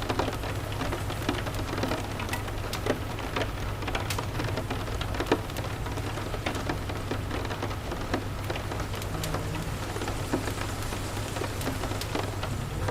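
Steady rain with a low, steady rumble underneath, and many scattered sharp clicks and pops through it, as of a crackling wood fire.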